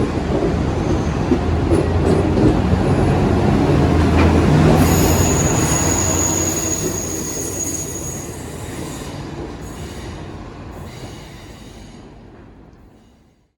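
DSB IC4 diesel multiple unit running through the station, its rumble swelling and then fading away, with a steady high wheel squeal for about two seconds midway. The sound cuts off abruptly near the end.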